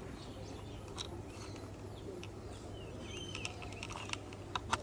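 Faint small clicks and taps of screws being set into the screw holes of a plastic toy car, with a couple of sharper clicks near the end, over a low steady hum and a few faint bird chirps.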